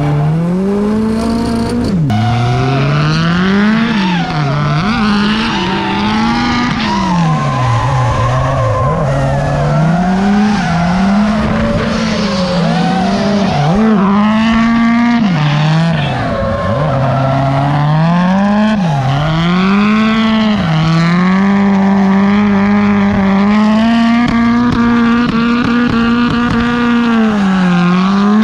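Honda K24 four-cylinder engine in a drifting Nissan Cefiro, revving hard under wheelspin. Its pitch swoops up and down again and again and holds flat at the top of the revs for stretches, with tyres squealing.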